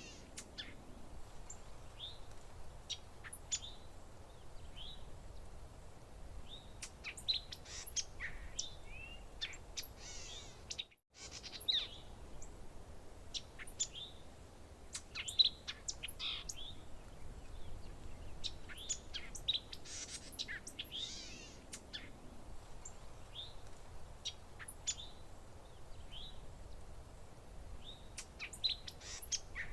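Songbirds chirping and calling, many short, quick notes overlapping, over a faint low background hiss. The sound drops out completely for a split second about eleven seconds in.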